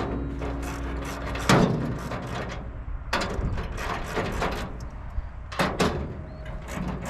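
Metal parts of a steel gravity hog feeder being handled and fitted: clanks, rattles and sliding scrapes, with sharp knocks about a second and a half in, about three seconds in and again near six seconds. Guitar music ends at the first knock.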